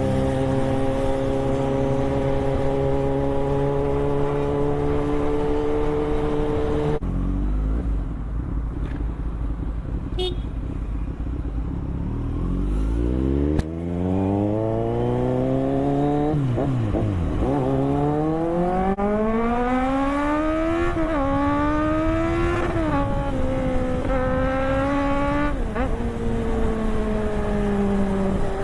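Superbike engine and exhaust, heard from the rider's seat: cruising steadily, backing off about a quarter of the way in, then accelerating hard with the pitch climbing through several quick upshifts before settling back to a steady cruise near the end.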